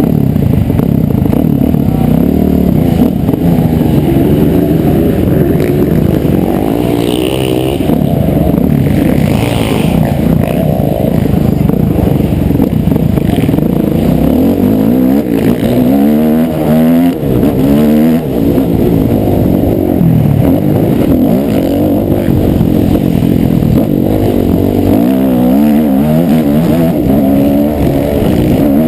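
Motocross bike engine being revved over and over, its pitch rising and falling, loud and close.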